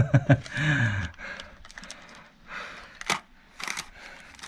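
A man's voice in the first second, then a few short clicks and rustles of small objects being handled, the loudest about three seconds in and again shortly after.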